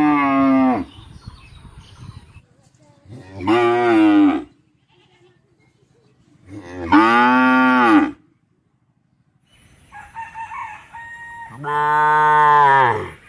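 Cow mooing: one moo trailing off at the start, then three more long moos a few seconds apart, each lasting about a second and a half and rising then falling in pitch.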